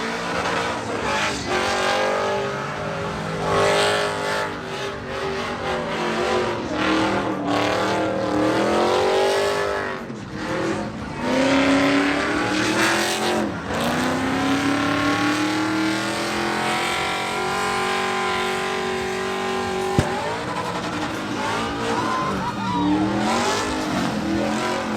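Truck engine revving hard up and down during a burnout, with tyre squeal and the hiss of spinning tyres. About two-thirds of the way through the revs hold high for a few seconds before dropping back and wavering.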